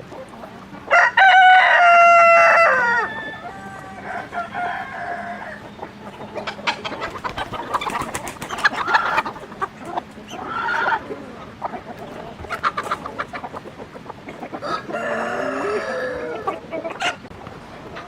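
Rooster crowing once, a long loud call about a second in, followed by chickens clucking and calling on and off.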